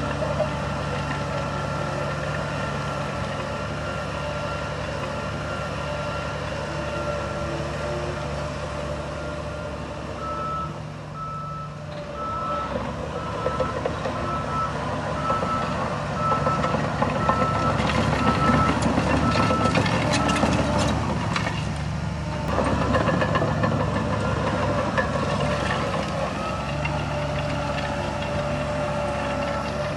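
Heavy diesel earthmoving machinery running steadily, with a reversing alarm beeping at an even pace, a little over once a second, from about ten seconds in until about twenty seconds in. Louder rumbling and clattering build up in the second half and peak around twenty seconds.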